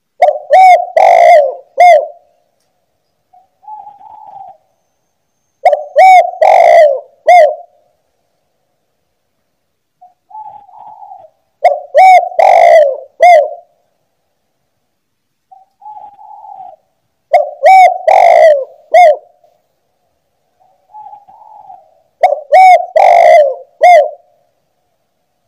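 Spotted dove (tekukur) cooing. A soft low note leads into a loud phrase of three or four quick coos, and the phrase repeats about every six seconds, five times in a row.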